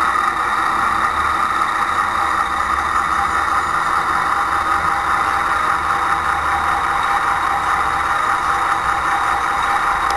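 Model locomotive's onboard sound system playing a diesel shunter engine idling, a steady unchanging hum with a thin high whine, as reproduced through a small speaker.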